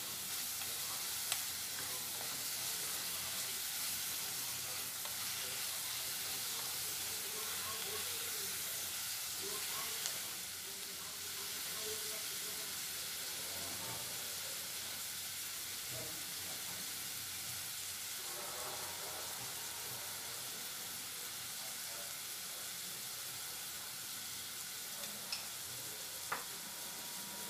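Chopped onions, tomatoes and cashews sizzling steadily in oil in a pot, stirred with a spatula at first, with a few light clicks of the spatula against the pot.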